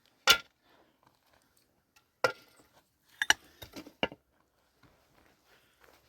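A few sharp knocks and clatters of hard objects: one about a third of a second in, another at about two seconds, then a quick run of several around three to four seconds.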